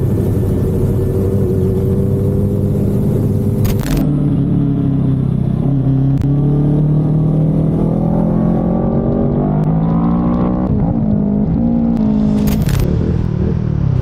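Motorcycle engine accelerating: its pitch climbs steadily for several seconds, drops sharply at a gear change, then climbs again, over steady wind and road noise.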